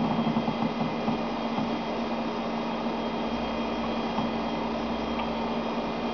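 Stepper motor on a homemade CNC router's X axis humming with one steady tone over a hiss.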